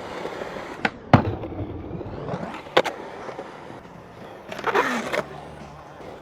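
Skateboard wheels rolling, with sharp clacks of the board striking the ground about a second in and near three seconds. A longer scraping grind follows around five seconds, dropping in pitch as it ends.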